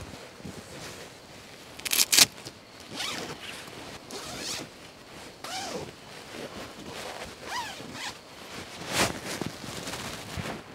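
A zipper being pulled in quick strokes, the loudest a fast double pull about 2 s in and another about 9 s in.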